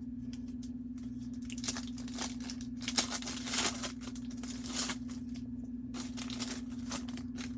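Foil wrapper of a football trading-card pack being torn open and crinkled, with irregular rustles busiest near the middle, over a steady low electrical hum.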